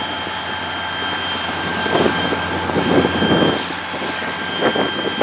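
EMD diesel locomotives, an SD40-2 and a GP50, running with a steady engine drone, swelling into louder rumbling surges about two seconds in and again near the end.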